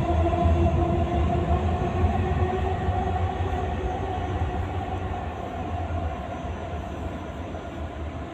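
A Dubai Metro train running along the elevated viaduct, a low rumble with a steady whine over it that slowly fades as it moves away.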